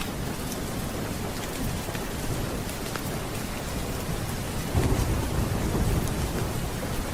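Steady rain, with a low roll of thunder rising about five seconds in and rumbling for a couple of seconds. Small scattered ticks sound through the rain.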